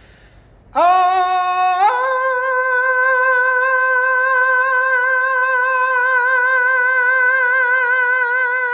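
A single voice singing a sustained vowel: it comes in on one note about a second in, steps up to a higher note a second later, and holds that note with steady vibrato for about seven seconds before cutting off at the end.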